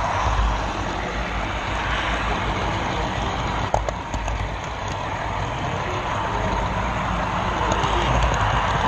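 Steady rumbling rattle of a model-railroad camera car rolling along the track, with one sharp click a little under four seconds in.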